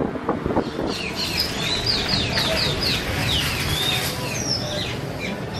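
Birds chirping and calling in many short, quick notes, starting about a second in, over background crowd chatter.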